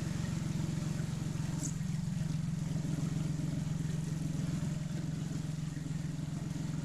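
Outboard motor of an inflatable river jet boat running steadily, an even hum with no change in speed.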